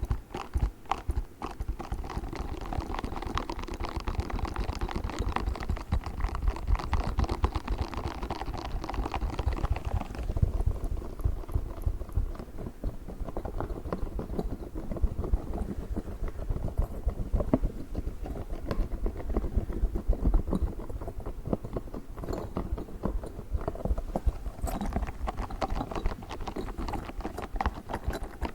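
Fingers rapidly handling a spiky toy ball close to the microphone: a dense, irregular stream of soft clicks, taps and low thuds, a little duller in the second half.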